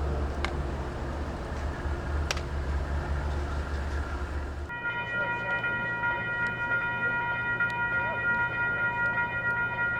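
A low rumble for the first four and a half seconds, then, after an abrupt cut, a diesel locomotive's air horn sounding one long, steady chord that is still going at the end.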